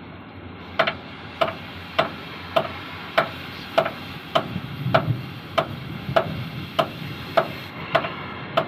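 Hammer blows on metal in a steady rhythm, about fourteen strikes a little over half a second apart, each with a short metallic ring, as in cutting out a worn pin sleeve on a backhoe.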